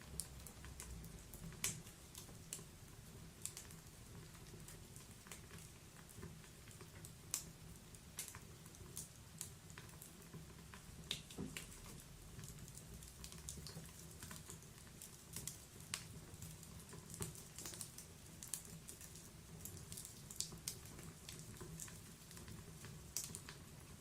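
Wood fire burning in a fireplace, crackling with irregular sharp pops and snaps over a low, soft rumble of the flames.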